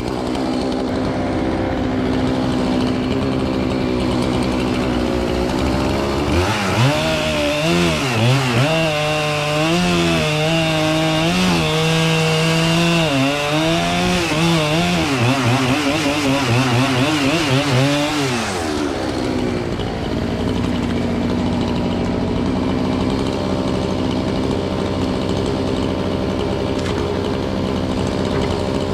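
Chainsaw running: steady at first, then from about six seconds in it runs louder for about twelve seconds with its pitch wavering up and down as it works through wood, then it settles back to a steady running note.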